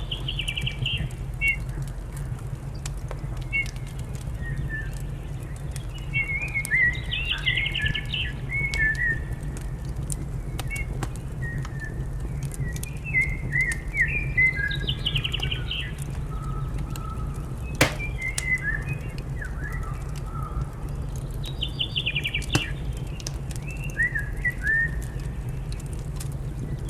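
Small songbirds chirping in short repeated phrases, with scattered sharp pops and crackles from a wood fire and a steady low rumble underneath; the loudest pop comes about two thirds of the way through.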